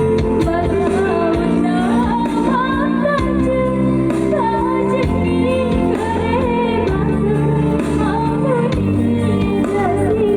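A voice singing a wavering, vibrato-laden melody over an instrumental accompaniment of held chords that change every second or two.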